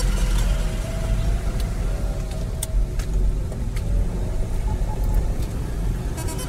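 Road traffic in a jam: car and truck engines running with a steady heavy low rumble.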